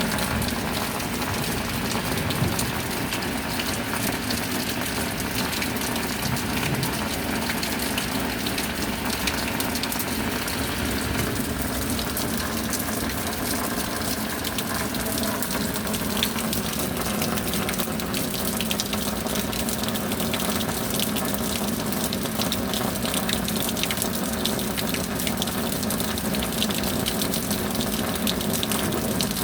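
Steady rain falling: a continuous, even rush of water, flecked with many small drop impacts.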